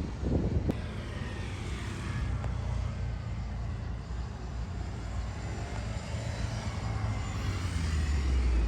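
Jet airliner engines running, a steady low rumble with a thin whine that falls in pitch over the first couple of seconds.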